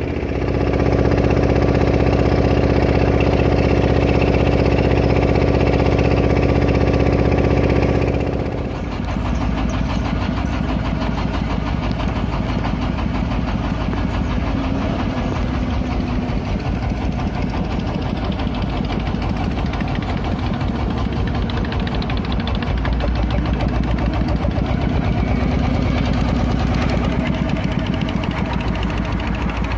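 Klotok river boat's diesel engine running steadily and loudly. About a third of the way in the sound changes from an even hum to a rougher, fast knocking chug.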